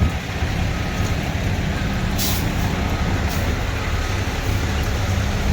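Steady road-traffic and engine rumble. A short air-brake hiss sounds about two seconds in, with a smaller one a second later, and a faint beep repeats about once a second.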